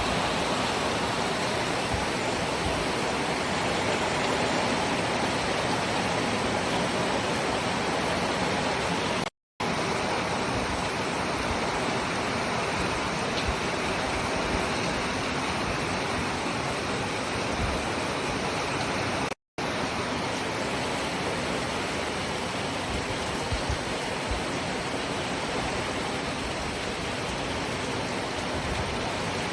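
Steady rain falling, an even hiss with no single drops standing out. It cuts out completely twice, for a split second each time, about a third and two thirds of the way through.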